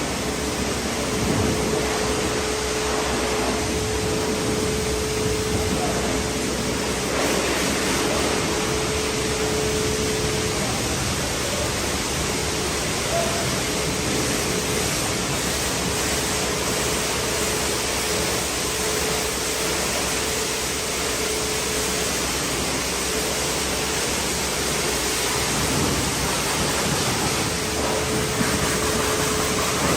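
Pressure washer spraying water: a steady hiss of spray with a thin steady hum underneath that drops out briefly a few times.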